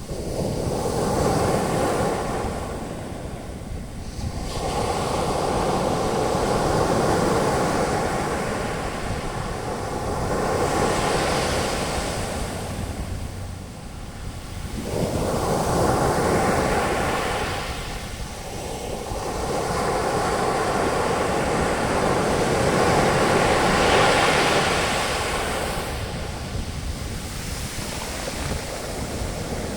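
Ocean waves breaking on a beach and foam washing up the sand, swelling and fading in slow surges every several seconds.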